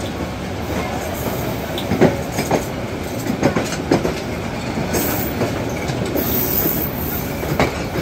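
Passenger train coaches rolling past at close range: a steady rumble of wheels on rail, with irregular clacking knocks as the wheels cross rail joints.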